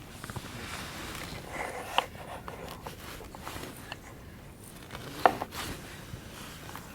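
Objects being handled at close range: soft rustling and scraping with scattered light clicks, and a sharper knock about two seconds in and another, the loudest, a little after five seconds in.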